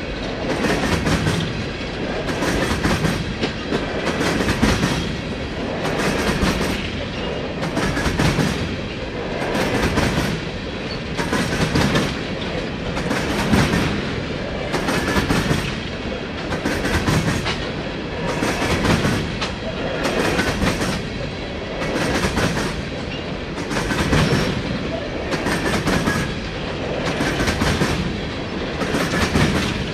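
Empty coal train rolling past, its wheels clattering over the rails. The clatter swells in a steady pulse about every two seconds.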